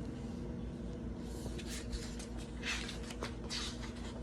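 Paper rustling as a picture book's pages are handled and turned, with a couple of light taps, over a faint steady electrical hum.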